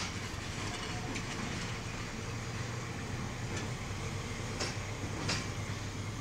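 Rail vehicles passing: the rumble of wheels on track as the end of a passenger carriage goes by, then a yellow work train of motorised track-maintenance vehicles and flat wagons rolls past with a steady low engine hum and a couple of sharp clicks near the end.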